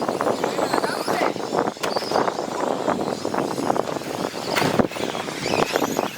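Several radio-controlled 2WD short course trucks racing on a dirt track: a steady clatter of motors, tyres and chassis over the dirt, with many short knocks and a few brief rising and falling motor whines as the trucks speed up and slow down.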